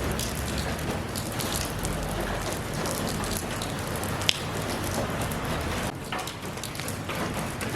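Steady rain falling, an even hiss with many individual drops ticking on a surface and one sharper drop about halfway through.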